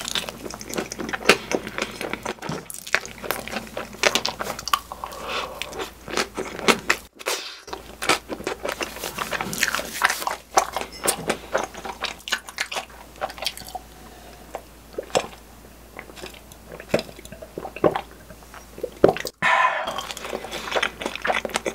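Close-miked mouth sounds of eating a whipped-cream strawberry crepe: a bite, then many small wet smacks and clicks of chewing with the mouth closed.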